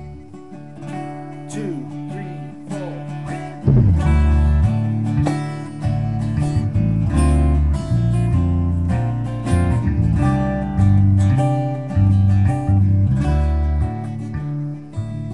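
Acoustic guitar strummed in an instrumental passage of a song, over a low bass line that changes note every second or so. It gets louder about three and a half seconds in.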